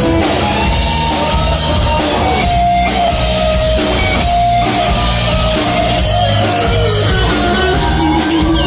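A band playing loud amplified music, with drums and guitar.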